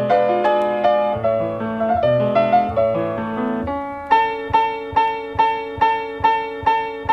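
Instrumental piano music with no vocals: flowing chords, then from about four seconds in one chord struck over and over, about two and a half times a second.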